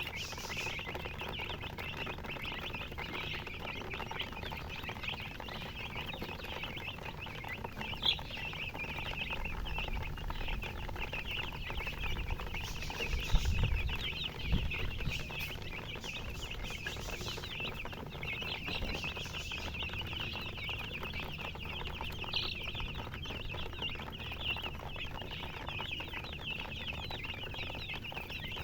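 A brood of baby chicks peeping continuously, many high chirps overlapping, with a few low knocks and bumps about halfway through.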